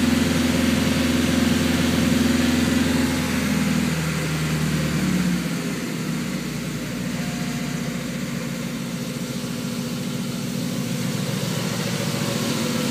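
Car engine idling, its note dropping lower about four seconds in and then holding steady. The owner reports very low oil pressure and a misfire.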